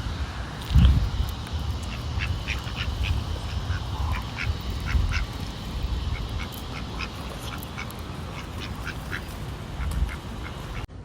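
Ducks quacking, many short calls one after another, over a low rumble on the microphone, with a loud thump about a second in.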